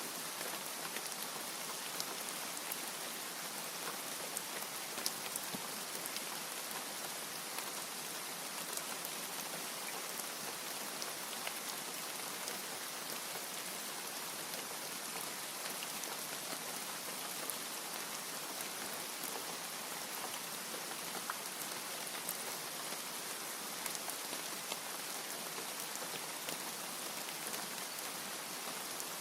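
Steady rain falling, an even hiss of droplets with scattered individual drop ticks; no thunder.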